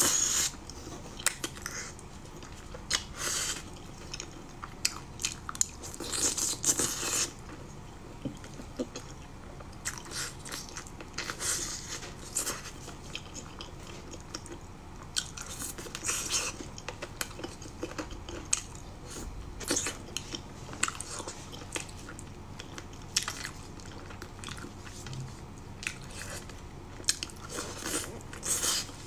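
Close chewing and biting of stewed chicken feet: irregular wet crunches and clicks as the soft skin and tendons are torn off and chewed.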